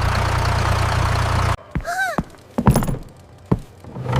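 Tractor engine running steadily, cut off abruptly about a second and a half in. A short high squeak that rises and falls follows, then a few sharp knocks.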